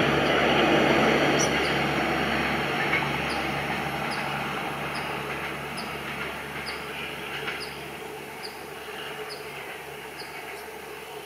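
Indian Railways express train (WDP 4D diesel with LHB coaches) rumbling along the track and fading steadily as it recedes. A faint high chirp repeats about every half second in the background.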